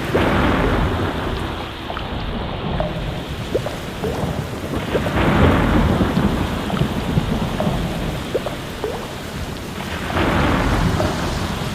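Steady rain with rolls of thunder, swelling three times: near the start, about halfway and near the end.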